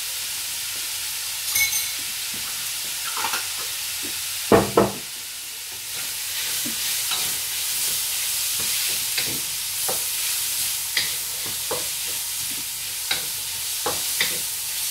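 Chicken pieces with sambal oelek sizzling in a wok over a gas flame, with a wooden spatula scraping and stirring through them. A short ringing metallic clink comes about a second and a half in. Two loud knocks, the wok shifted on the stove grate, come about four and a half seconds in, and the sizzle grows louder from about six seconds.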